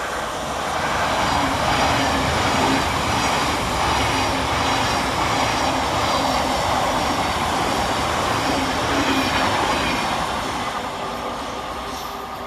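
Thameslink Class 700 electric multiple unit passing on the line, a steady rush of wheels on rails with faint humming tones, building about a second in and fading near the end.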